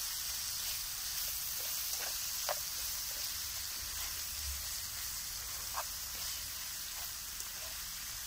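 Pre-cooked meat and onion with soy sauce frying in a nonstick pan: a steady sizzle while being stirred with a spatula, with a few faint scrapes against the pan.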